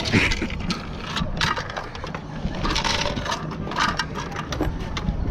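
Ostriches pecking at feed pellets: a rapid, irregular run of sharp clicks and crunches from their beaks.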